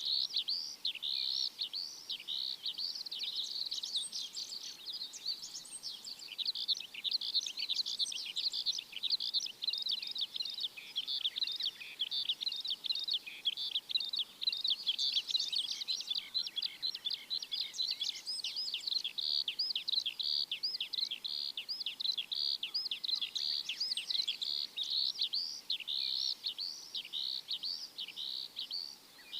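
Many small birds chirping at once, a dense, unbroken stream of short high chirps.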